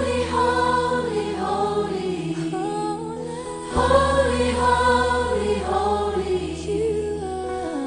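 Choral music: several voices singing long held notes over a steady low bass, a new phrase beginning about halfway through.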